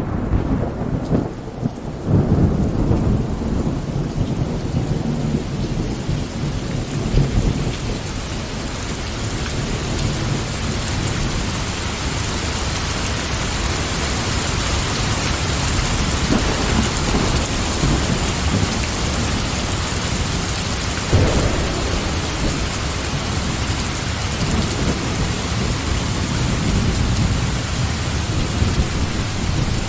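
Steady heavy rain, with deep rolling thunder rumbling in the first several seconds and a sharper thunder crack about two-thirds of the way through.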